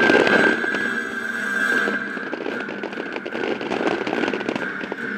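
Fireworks display in a lull: scattered faint pops and crackles as low shells launch, over a steady high held tone from the show's accompanying music.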